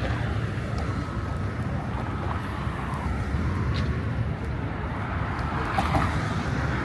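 Busy city street ambience: a steady low rumble of traffic with wind on the microphone, and a few faint voices near the end.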